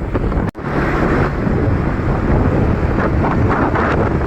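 Loud wind buffeting the microphone, a steady low rumble, broken by a sudden brief dropout about half a second in.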